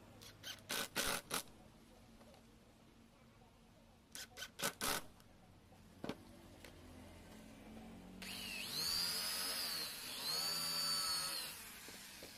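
Small electric power tool motor, drill-like, run in two short bursts, its whine rising and falling in pitch each time. Before it come two quick clusters of sharp clicks and knocks, and one more click.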